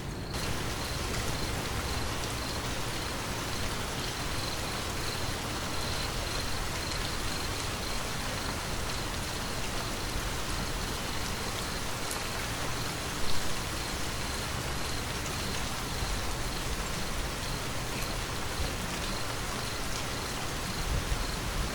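Steady rain falling, an even hiss of many drops, with one brief louder moment about two-thirds of the way through.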